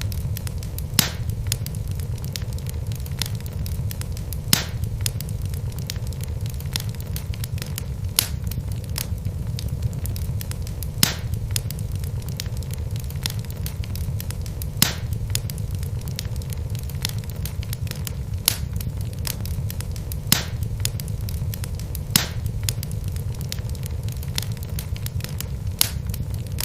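Wood logs burning in a fireplace: a steady low rumble of the fire with sharp crackles and pops, a loud pop every few seconds among many fainter ones.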